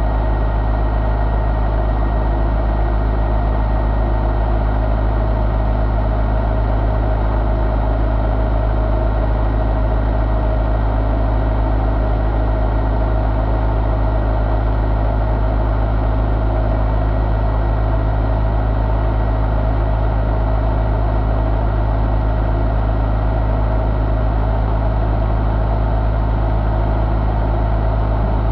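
1985 Ford 1.6-litre four-cylinder engine running steadily at one constant speed, with no change in pitch.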